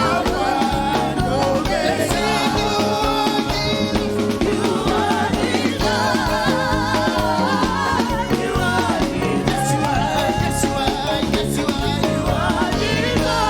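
Live gospel praise-and-worship music: voices singing over a band with drum kit, at a steady, lively beat.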